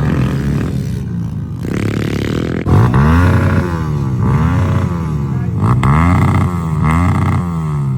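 Pit bike's small single-cylinder engine revving up and down over and over, getting louder about two and a half seconds in.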